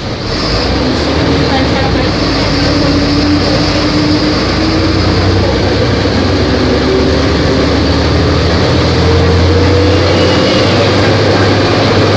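Volvo B270F bus's diesel engine pulling under load, its pitch rising slowly as the bus accelerates. The sound swells in the first second.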